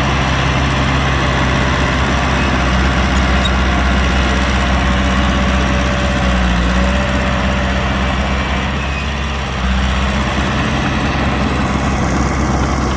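Heavy diesel engine of construction machinery running steadily at low revs, with a brief drop in level about three-quarters of the way through.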